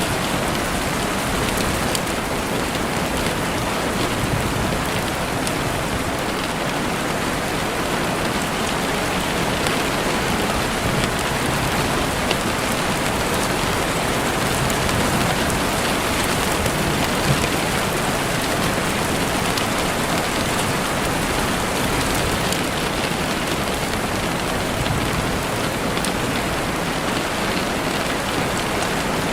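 Heavy rain falling steadily on a window pane, a dense even hiss of rain with scattered individual drop taps.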